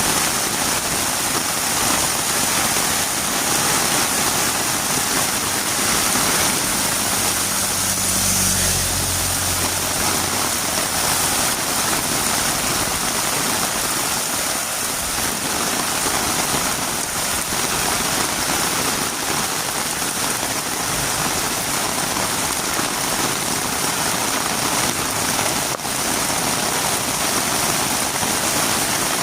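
Heavy rain falling steadily on a road, a dense even hiss. A low hum joins briefly about seven seconds in.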